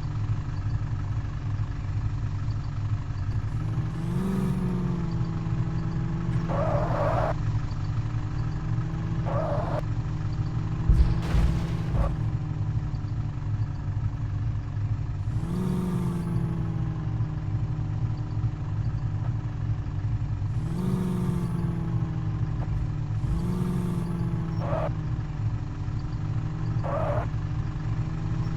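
Truck engine running steadily, revved up briefly four times. There are short hissing bursts at intervals, and a loud clatter of knocks about eleven seconds in.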